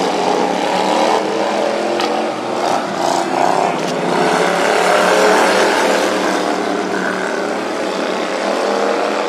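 Racing lawn mower engines running hard, several small engines overlapping, their pitch wavering up and down.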